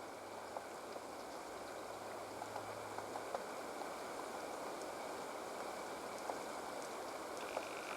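Woodpecker chiseling at a pine cone: faint, irregular taps over a steady background hiss, with a low hum that stops about three seconds in.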